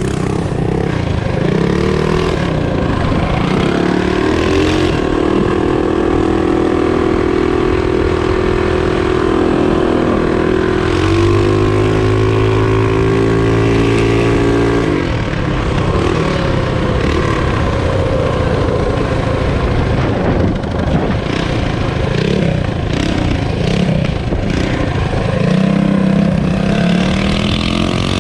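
Small single-cylinder four-stroke minibike engine running under way, its pitch holding steady for several seconds at a time, then falling and rising again as the throttle changes.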